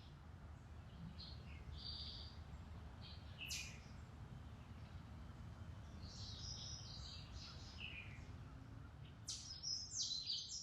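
Woodland songbirds chirping: scattered short calls, with a louder cluster near the end, over a steady low rumble.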